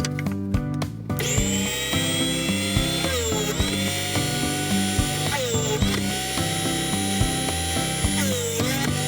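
Small benchtop drill press motor starting up about a second in and running, its pitch dipping and recovering three times, over background music with a steady beat.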